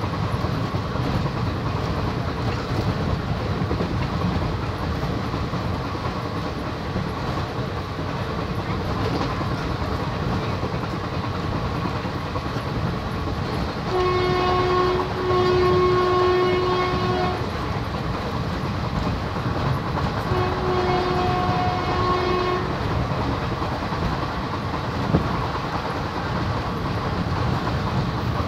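Passenger train running, heard from on board as a steady rumble of wheels on rails. Its horn sounds three times about halfway through: a short blast, a longer one right after, and another a few seconds later.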